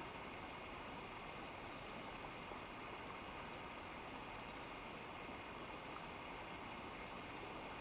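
Steady rushing of a mountain river or waterfall, an even hiss of water with no breaks.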